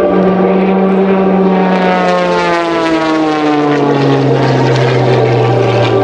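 MXS-RH aerobatic monoplane's 300-plus horsepower piston engine and propeller, running loud, its note falling steadily in pitch over about four seconds before levelling out low.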